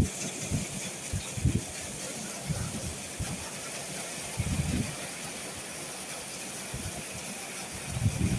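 Steady hiss of a rainstorm, with irregular gusts of wind buffeting the microphone.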